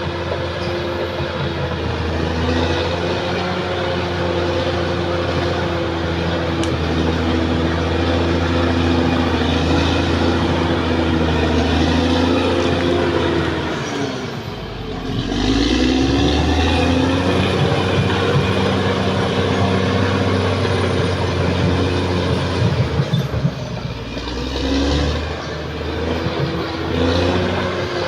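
Caterpillar D6R XL bulldozer at work: its diesel engine runs steadily, with the revs dipping and recovering about halfway through. There is some clanking about two-thirds of the way in.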